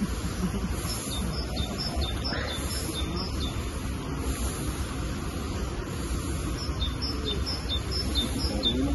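A songbird calling in two runs of short, high chirps repeated about three times a second, over steady outdoor background noise.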